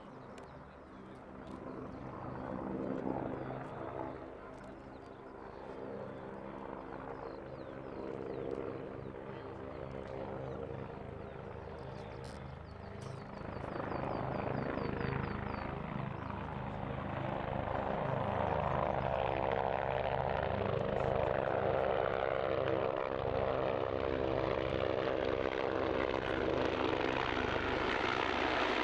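Propeller-driven aircraft engine droning steadily at one pitch, growing louder over the second half.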